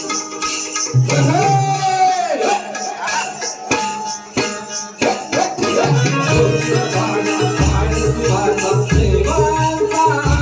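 Marathi folk music played by an ensemble, with hand drums keeping a fast rhythm under a gliding melody line. A deep low bass part comes in about two-thirds of the way through.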